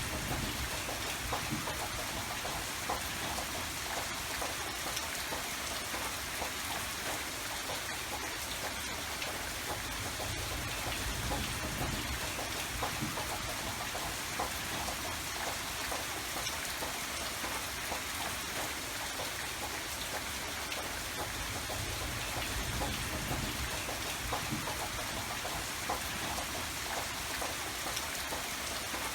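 Steady rain falling, many small drops pattering on surfaces, with a soft low rumble underneath.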